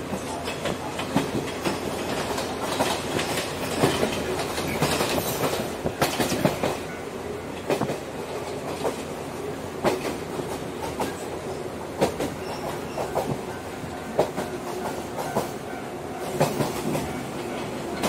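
Shinano Railway Series 115 electric train running over the track, heard from inside its motor car: a steady rumble with sharp clickety-clack knocks from the wheels over rail joints and points, every second or two.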